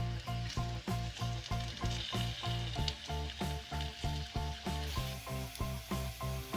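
Potatoes and mushrooms sizzling as they fry in a pan and are turned with a spatula. Background music with a steady beat is louder than the frying.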